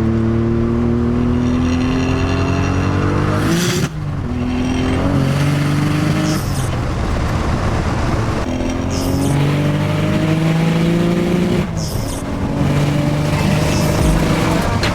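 Nissan 300ZX's twin-turbo V6 under hard acceleration, its pitch climbing through the revs and dropping at each gear change, several pulls in a row. Short hissing rushes come from the open-dumped twin wastegates opening as it comes into boost.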